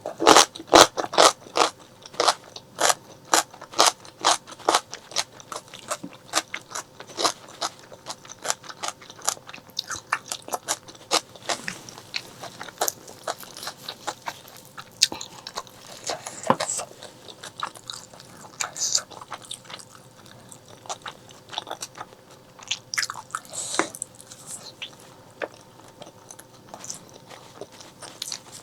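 Close-miked mouth sounds of someone chewing and biting into braised pork leg: a quick run of sharp, wet clicks and smacks for the first several seconds, then slower and more scattered chewing.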